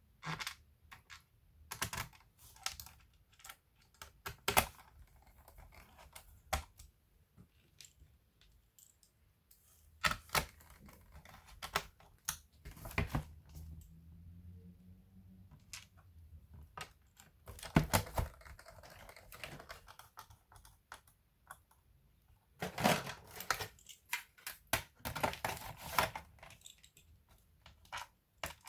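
Irregular plastic clicks and taps from hands working on a laptop, sometimes single and sometimes in quick runs of several.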